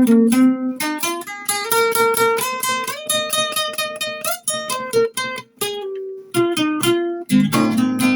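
Acoustic guitar played freely, plucked single notes and ringing chords, turning into fuller strummed chords near the end.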